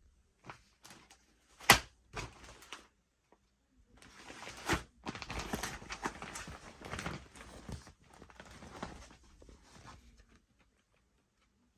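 Objects being handled at close range: a sharp knock about two seconds in, a few lighter clicks, then several seconds of rustling and scraping with another tap partway through.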